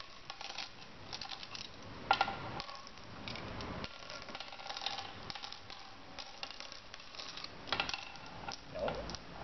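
Mancala game pieces clicking and clattering as they are dropped one after another into the board's pits.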